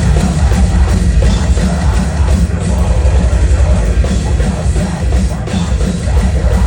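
Metalcore band playing live at full volume, with heavy distorted guitars, pounding drums and bass.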